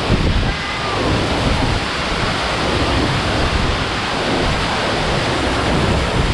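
Steady rush of a mountain stream, with gusts of wind buffeting the microphone as an uneven low rumble.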